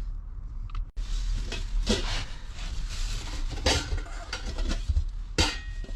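Pots, bowls and utensils being handled, with a few clinks and clatters.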